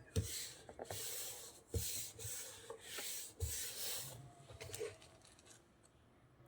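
Paper or cardstock being rubbed in about six brisk strokes, with a light knock on the table about every second and a half, then quieter near the end.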